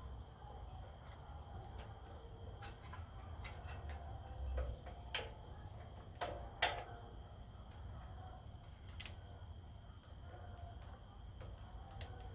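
Faint clicks and light knocks of hands and a tool working at a rubber fuel hose on a small generator engine, with two sharper clicks about five and six and a half seconds in. A steady faint high-pitched tone and a low hum run underneath.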